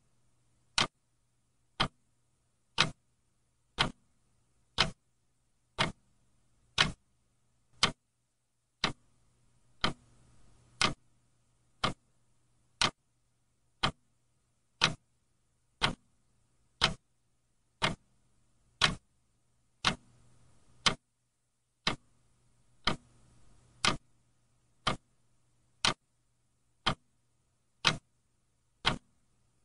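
Clock ticking steadily, about one sharp tick a second, over a faint low hum.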